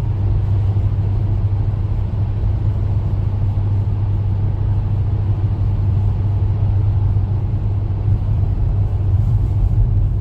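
Steady low rumble of a vehicle driving at road speed, heard from inside the cab: engine and road noise.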